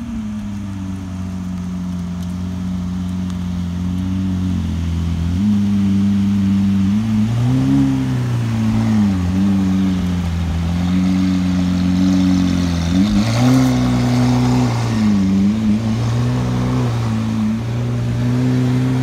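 Lamborghini Aventador roadster's V12 engine running at low revs as the car creeps past. Its pitch rises and falls several times with small throttle changes, and it grows louder over the first few seconds as the car approaches.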